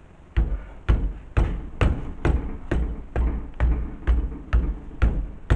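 Evenly repeated dull knocks, about two a second, as the front-left wheel and brake assembly of a Ford Ka is struck to test for rattle. Only a clean thump with each blow, no loose clatter: the new brake pin has cured the rattle.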